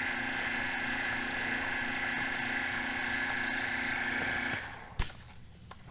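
A machine's motor running at a steady pitch, then shutting off about four and a half seconds in, followed by a single sharp click.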